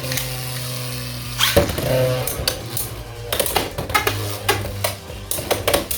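Hells Scythe and Rhino Horn Beyblade X tops spinning in the stadium and colliding: repeated sharp clacks of hard plastic and metal, coming thick and fast from about three seconds in.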